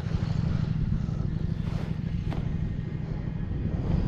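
Motorcycle engine running steadily while riding, an even low drone with no clear change in revs; the bike is a KTM 1290 Super Duke R with its V-twin engine.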